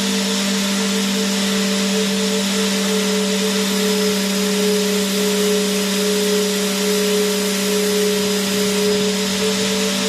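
Vacuum cleaner running continuously at a steady pitch: an even rushing hiss with a constant low hum and a fainter higher tone above it.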